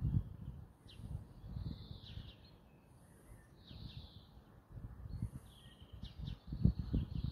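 Songbirds calling: short, high chirps and calls every second or two, with fainter, higher calls between them. Under them runs a low rumble, loudest at the start and again about six and a half seconds in.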